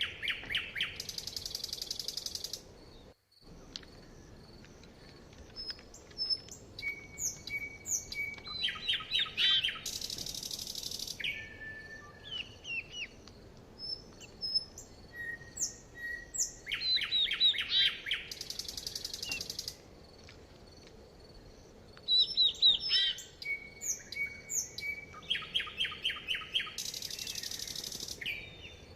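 Songbirds singing. One song phrase comes back about every eight seconds: a quick run of falling notes that ends in a high buzzy trill. Shorter whistled notes and chirps fill the gaps, and the sound drops out very briefly about three seconds in.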